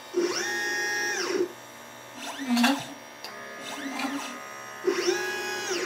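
LitePlacer pick-and-place machine's stepper motors moving the placement head, a whine rising in pitch as each move speeds up, holding, then falling as it slows. There is a long move near the start, two shorter ones in the middle and another long move near the end.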